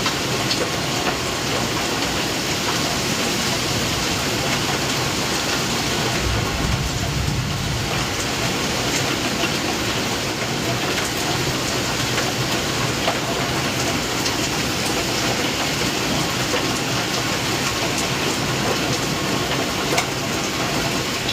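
Heavy rain pouring steadily, an even rushing hiss with a few scattered taps of drops.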